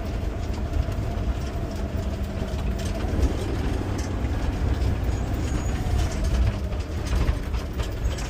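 Garbage truck running as it drives across rough landfill ground, a steady low rumble with a faint steady engine tone, heard from inside the cab. Frequent short knocks and rattles from the truck bouncing over the ground.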